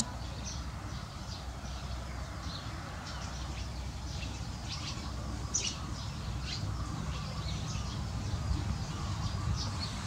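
Small songbird chirping: many short, high, sharp chips, several a second and irregular, over a steady low rumble.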